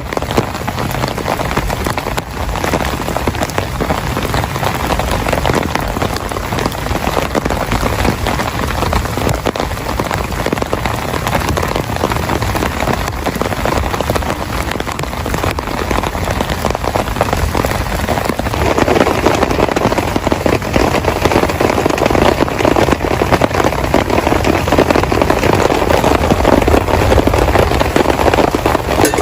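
Heavy rain falling steadily in a dense patter of drops, growing heavier about two-thirds of the way through.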